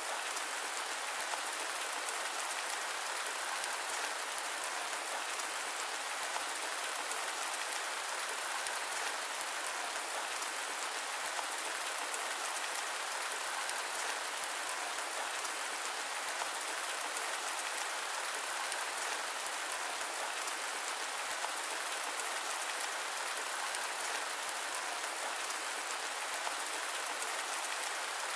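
Steady rain, an even unbroken hiss with no thunder and no change in level, with almost no low rumble beneath it.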